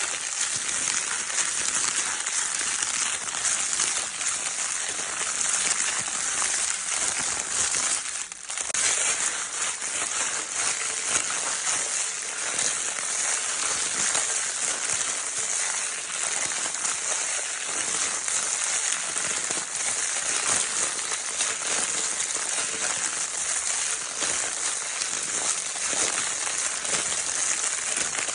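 Crinkle paper of a baby's crinkle toy being crinkled continuously, a dense, bright crackle with fine rapid clicks, dipping briefly about eight seconds in.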